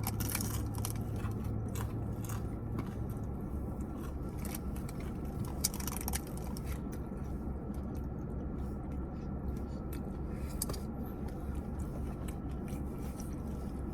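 Close-up chewing and crunching of a taco with its crisp fried shell: many small, irregular crunches, over a steady low hum.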